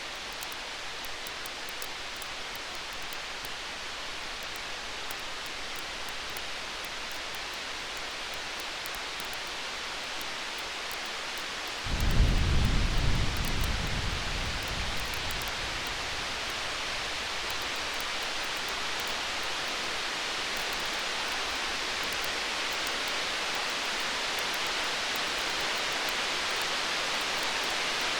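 Distant thunder: a deep rumble starts suddenly about twelve seconds in and fades over about three seconds. Underneath runs a steady rain-like hiss with the faint crackle of a bonfire.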